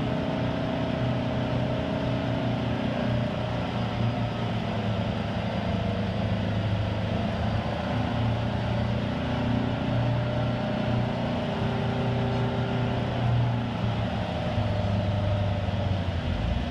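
Detroit Diesel engine of an American Hoist & Derrick 9530 crane running steadily, its pitch drifting up and down a little as the crane works.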